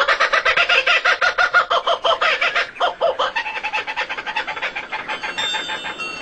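A bird call of rapid, repeated clucking notes, about nine a second, loud for about three seconds and then trailing off into fainter, quicker notes.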